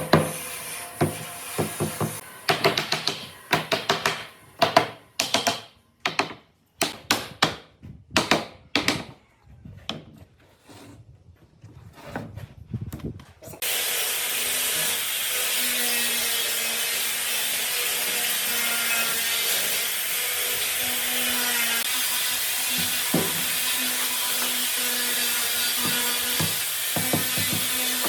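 A run of sharp knocks on wood that grow fainter and thin out over the first half. About halfway through, an electric power tool starts suddenly and runs steadily on wood with a loud, even hiss.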